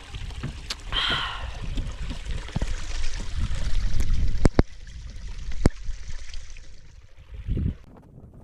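Mountain spring water trickling and gurgling, with a low rumble and a few sharp clicks about halfway through.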